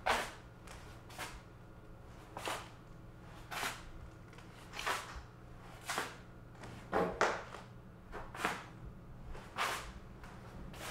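A quick swish or whoosh repeats about every 1.2 seconds, around ten times in all, with a double swish about seven seconds in. It sits over a steady low hum.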